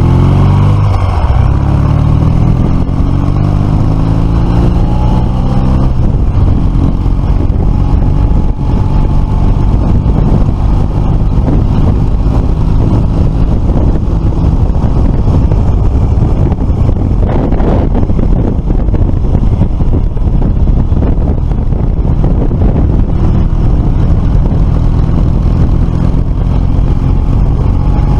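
Motorcycle engine under way: the revs dip about a second in, climb over the next few seconds, then hold steady at cruising speed. Wind rushes over the microphone throughout.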